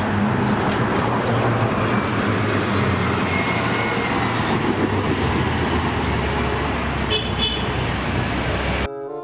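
Bus and street-traffic sound: an engine running steadily under a wash of road noise, with a short horn toot about three seconds in and another near the end. It starts and cuts off abruptly.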